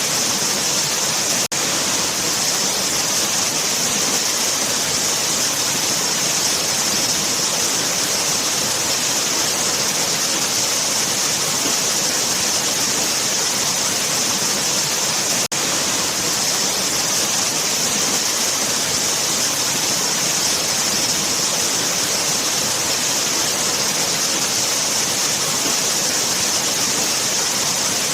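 Waterfall: a steady, loud rush of falling water, cutting out for an instant twice.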